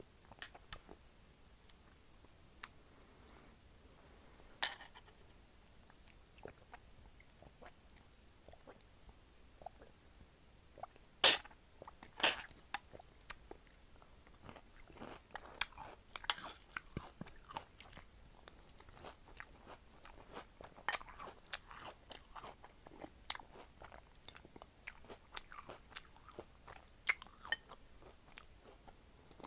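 Close-miked chewing and crunching of Cinnamon Toast Crunch cereal in milk, eaten by the spoonful. Sharp clicks come sparsely at first, then more densely, with the loudest a little before halfway.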